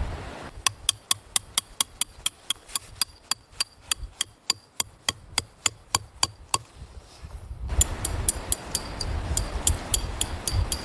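A fast, even run of sharp taps, about five a second, that stops about six and a half seconds in. After a short pause, wind rumbles on the microphone with more, less regular taps over it.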